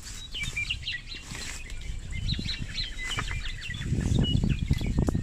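Small birds chirping in quick, short, high calls, with a low rumbling noise that gets louder in the last second or so.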